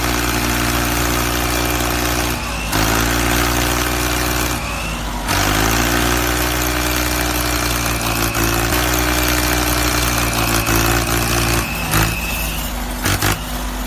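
A vehicle engine running hard and steadily under a loud rushing noise. Its note shifts up and down a couple of times, as if with changes of throttle, and there are a few short knocks near the end.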